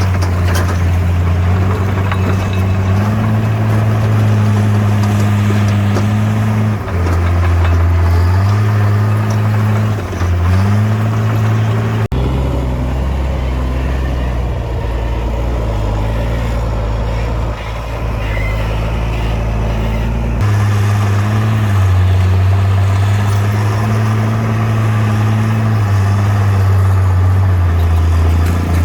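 Bulldozer's diesel engine running, its revs rising and falling several times as it works, with the engine note changing abruptly about twelve seconds in and again near twenty seconds.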